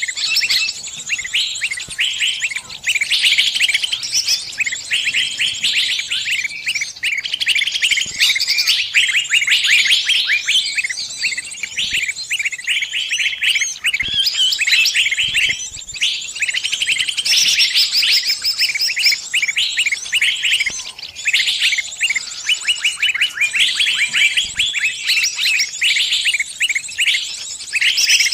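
A small bird's distress calls: rapid, harsh, insistent chirps repeated almost without pause. This is the cry of a trapped or pinched bird calling to its flock for help.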